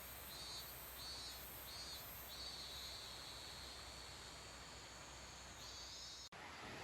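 Insects singing outdoors in high, repeated pulses that run together into a steady drone for a few seconds and then pulse again, over a faint noise bed. The sound cuts out abruptly about six seconds in, and an even hiss follows.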